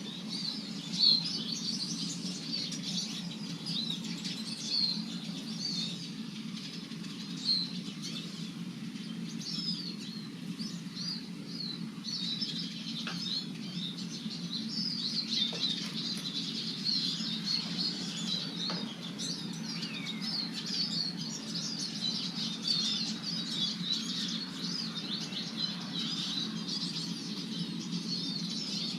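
Eurasian siskins twittering: a dense, continuous run of short high chirps and trills, over a steady low hum.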